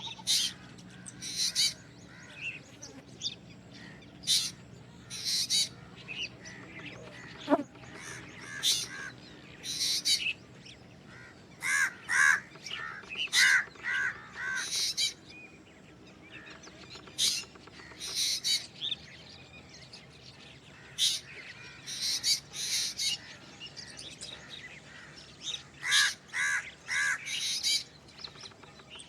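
Black drongo calling repeatedly: many short, sharp, high-pitched calls, with a few clusters of harsher, lower rasping notes.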